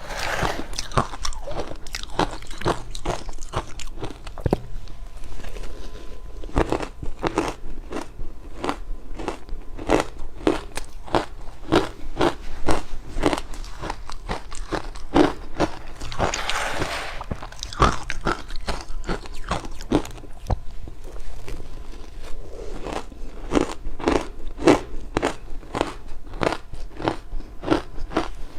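A person biting and chewing hard ice close to the microphone: rapid, repeated crunching and cracking as the ice shatters between the teeth.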